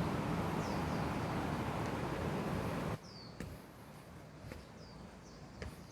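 A steady rushing noise, the loudest thing here, cuts off abruptly about halfway through. After it a bird calls with repeated short chirps that slide down in pitch, over faint background with a few light ticks.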